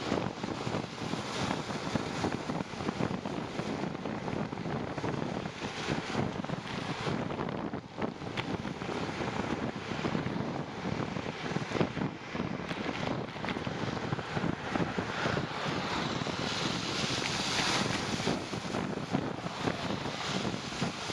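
Wind buffeting the microphone while riding a bicycle at speed, a steady, gusting rush.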